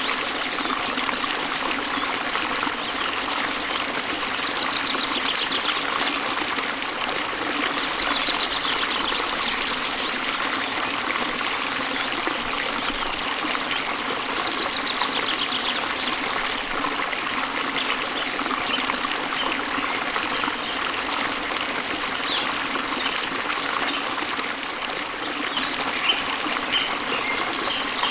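Waterfall water running and splashing steadily, with faint bird calls now and then and a few brief sharper chirps near the end.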